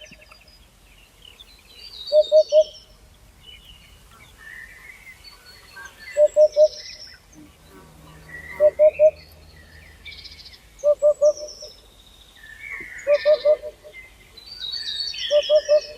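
Birdsong: one bird gives a low call of three quick notes, repeated roughly every two seconds, about seven times, while other birds sing higher, varied chirps and warbles between the calls.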